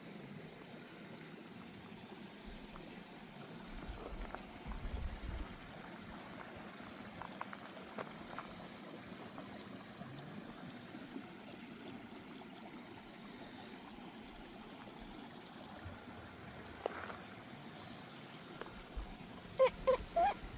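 Steady trickling flow of a creek. Near the end come a few short, high-pitched sounds.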